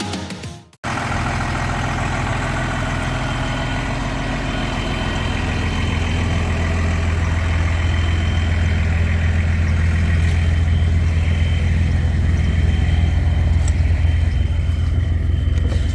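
Electronic music fades out in the first second, then a truck engine runs steadily with a low drone while under way, along with road noise.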